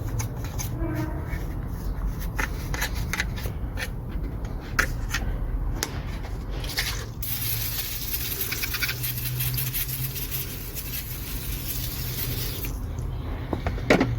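Light clicks and taps on engine parts. Then, about seven seconds in, a pressurised cleaning spray hisses steadily for about five and a half seconds over the diesel's fuel-system area. A single sharp knock comes near the end.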